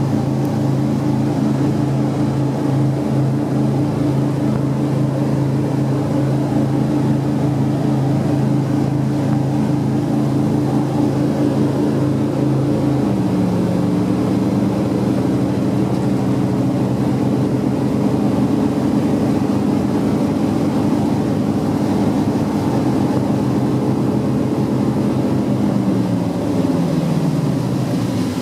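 Jet boat engine running steadily under way, its note changing about halfway through and falling away in pitch near the end as the boat slows.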